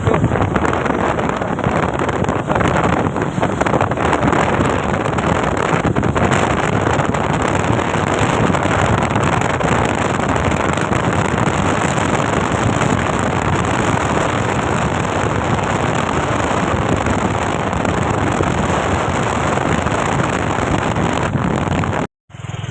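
Steady wind rushing over the microphone together with road noise from a moving vehicle, cutting off abruptly near the end.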